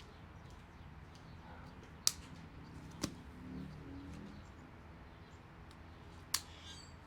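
Three sharp clicks of hand tools being handled during motorcycle engine work: two about a second apart, the third near the end, over a low steady hum.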